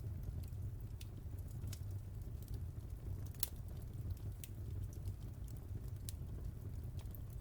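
Fire burning in a fireplace: a steady low rumble with scattered sharp crackles and pops, the loudest pop about three and a half seconds in.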